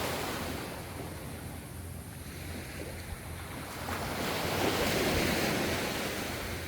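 Ocean waves washing ashore: the surf ebbs just after the start, then a new wave swells and breaks about four seconds in, loudest around five seconds, before easing off again.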